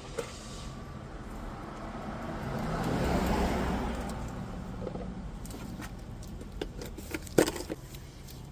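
A vehicle passing, its noise swelling to a peak about three seconds in and fading away, then a few sharp clicks and knocks near the end.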